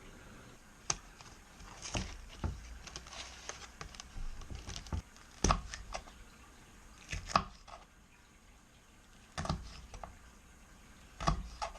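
Irregular knocks and clicks of kitchen items being handled and set down, about a dozen, spread unevenly with the sharpest ones around the middle.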